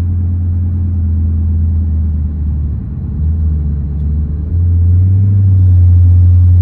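Low, steady car rumble that dips briefly about three seconds in, then grows louder about four and a half seconds in.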